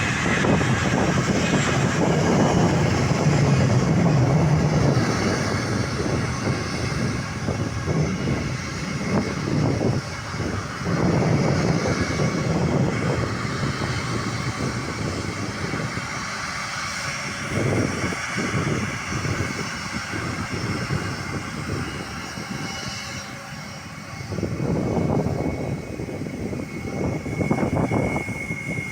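Jet airliner engine noise, loudest in the first few seconds and then fading, with a brief swell again near the end.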